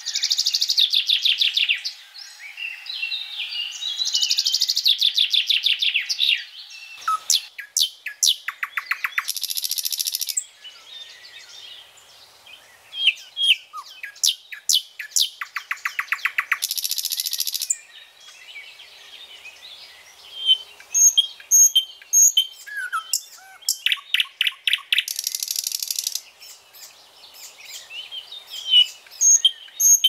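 Several birds chirping and calling, with bouts of fast trilling about two seconds long recurring every few seconds between short chirps.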